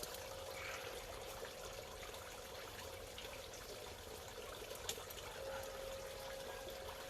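Water bubbling and trickling steadily, with a light click about five seconds in.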